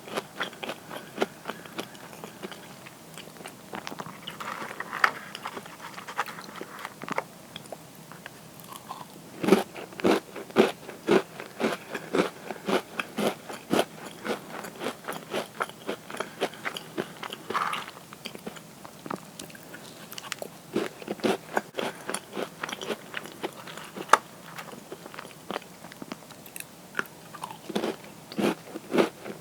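Close-up crunching and chewing of crisp butter cookies: dense, irregular crunches with bursts of louder bites, and a little rustling.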